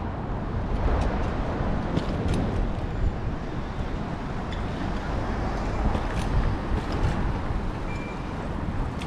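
Steady road and traffic rumble with wind on the microphone of a GoPro mounted on a moving bicycle, with a few faint clicks and a brief high tone about eight seconds in.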